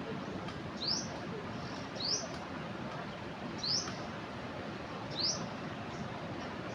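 A small bird gives a short, high, rising chirp four times, roughly every second and a half, over the steady rush of a flooded river.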